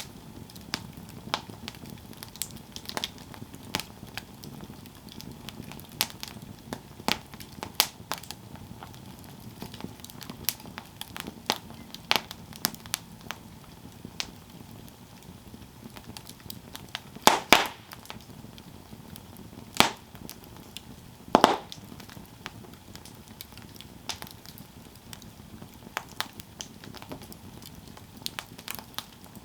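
Campfire burning and crackling, with irregular sharp snaps and a few louder pops from the burning wood, over a low steady rush of flame.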